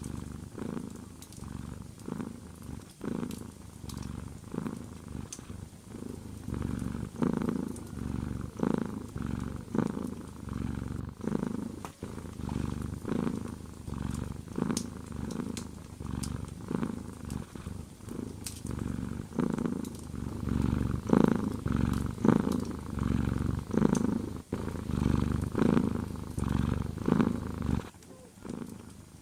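Domestic cat purring close up, a steady low rumble that swells and fades with each breath, roughly every second and a half.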